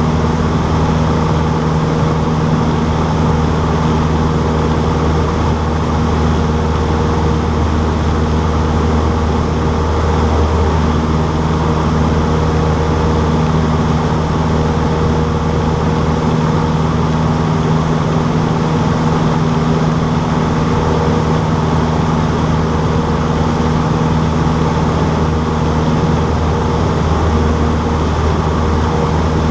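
Cessna 152's four-cylinder Lycoming O-235 engine and propeller running at steady power, a loud, even drone that does not change.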